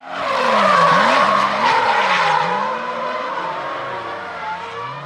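A drifting car sliding with its tyres squealing while the engine revs up and down on and off the throttle, loudest in the first two seconds and then fading.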